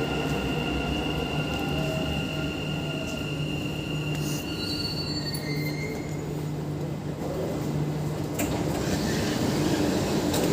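Dubai Metro train moving along the platform, with a high, steady squeal that fades out about halfway through. A steady low hum continues after it.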